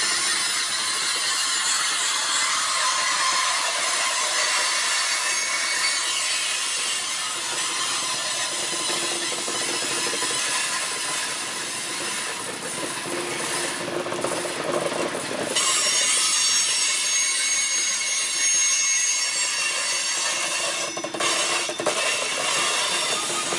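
Freight train's covered hopper cars rolling past close by: steady noise of steel wheels running on the rails, with a thin high whine coming and going in places.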